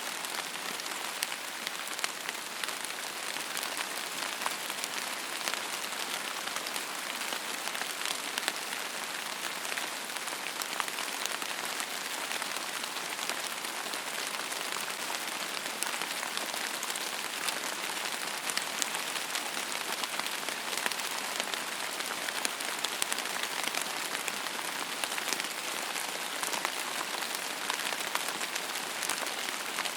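Steady rain falling on a surface: an even hiss dense with many small drop ticks, without change or break.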